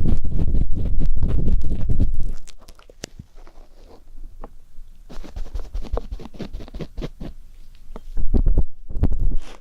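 Ear pick scraping and rubbing inside a microphone's ear for ASMR ear cleaning: loud, crackly rumbling scratches, easing after about two seconds into light scattered clicks and scrapes, then loud again near the end.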